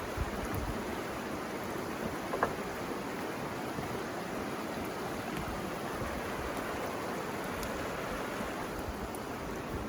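River water flowing steadily, an even rushing sound, with one short sharp crack about two and a half seconds in.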